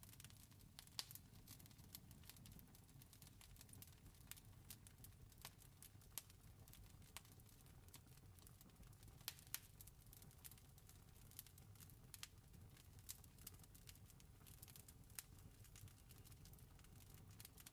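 Faint campfire crackling: irregular sharp pops and snaps over a low, steady rumble.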